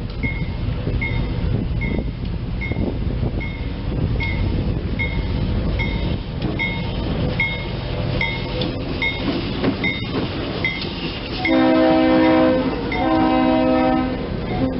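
A passing train's steady low rumble with a bell dinging about twice a second, then, about eleven seconds in, the multi-note chord of the GE C30-7 diesel locomotive's air horn in two long blasts, a third starting at the very end.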